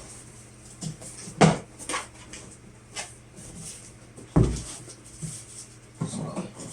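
Irregular knocks and scraping of hard plastic as a 3-inch ABS elbow is pushed into a hole cut in a plastic garbage can, with one heavy low thump a little after four seconds and a stretch of rubbing near the end.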